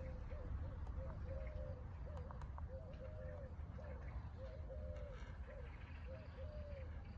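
A bird calling over and over, short low notes in quick runs, over a steady low rumble.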